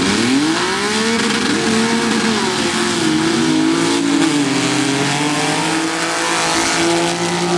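Two drag-racing trucks launching side by side down a sand drag strip at full throttle, engines running loud. The engine pitch climbs steeply at the start, drops back, then rises again as they run.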